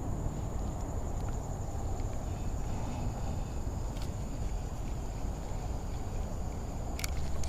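Steady wind rumble on the microphone with a continuous high-pitched insect trill, and a couple of faint clicks.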